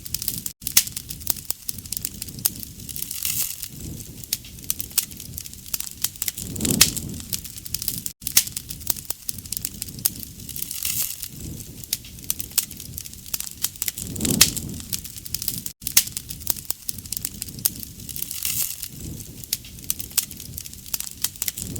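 Bonfire crackling and popping steadily, with a low whoosh of flame. The pattern repeats about every seven and a half seconds, with a brief gap each time, as a looped recording.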